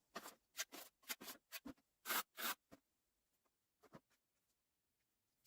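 A quick series of faint, short scraping or rustling sounds, about ten in under three seconds, with one more a second later.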